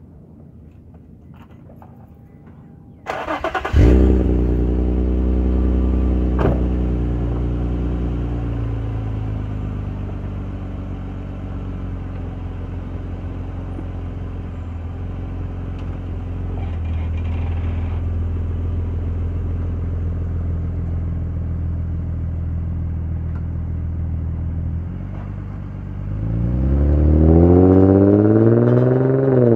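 Infiniti G35's V6, fitted with an aftermarket cat-back exhaust, starts about three seconds in with a sudden burst. It settles from a fast idle into a steady idle, then revs up with rising pitch near the end as the car accelerates.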